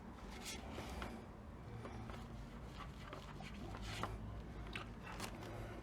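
Faint scattered rustles and light taps of hands working with a cleaning cloth and small plastic welding-helmet parts, over a low steady hum.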